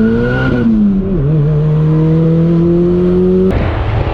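Turbocharged Honda Prelude four-cylinder engine pulling hard under acceleration. The revs climb, fall with an upshift about half a second to a second in, then climb again. The sound changes abruptly near the end.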